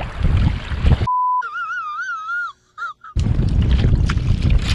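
Wind buffeting an action camera's microphone on the water, cut off about a second in by a short steady beep and then a warbling whistle that wavers up and down in pitch for about a second; after a brief gap the wind noise returns.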